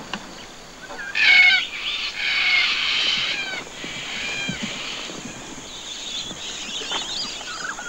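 Birds squawking and calling in loud, high, wavering calls for a few seconds, starting about a second in, then fainter high twittering.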